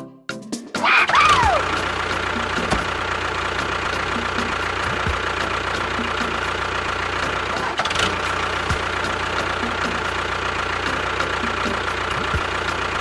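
An engine starts about a second in, with a brief falling whine, then runs at a steady idle.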